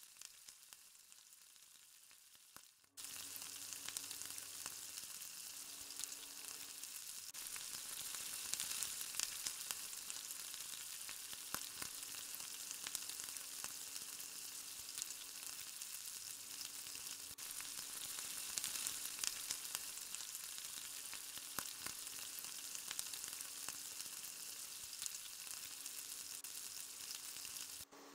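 Finger-shaped egg-and-flour dough pieces frying in hot oil: a steady sizzle with many small crackling pops. It is faint for the first three seconds, then suddenly much louder.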